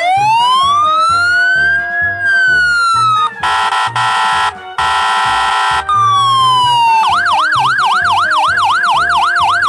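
Police siren sound effect: one slow wail rising and falling, two loud blasts of a buzzing air horn, then a fast yelp cycling about four times a second, over a steady background music beat.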